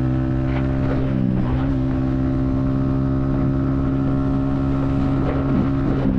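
Yamaha XSR155's 155cc single-cylinder engine running steadily at highway cruising speed, with wind rush on the helmet-mounted microphone. The engine note dips briefly about a second in and again near the end.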